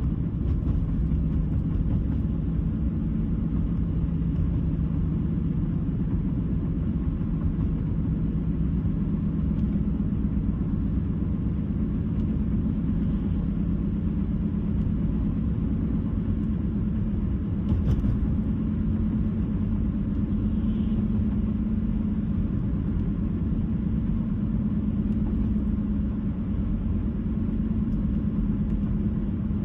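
Car driving at a steady speed: a continuous low drone of tyres on the road and the engine. There is a single faint tick about 18 seconds in.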